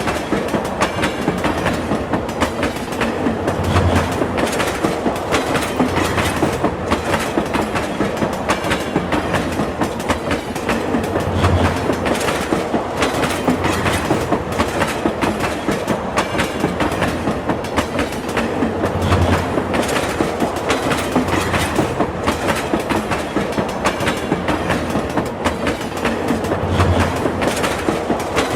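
Train running at speed, its wheels clacking steadily over the rail joints above a continuous rumble.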